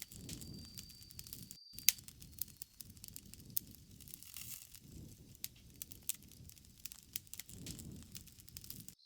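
Campfire burning: irregular sharp crackles and pops of burning wood over a low, soft rush of flame that swells and eases every few seconds.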